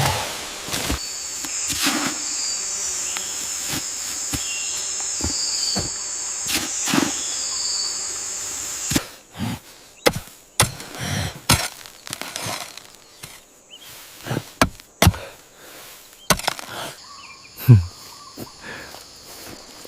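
Steady high insect drone of jungle ambience that stops about nine seconds in, with irregular sharp knocks and thuds of building work, such as chopping and hammering, throughout; one heavier thud near the end.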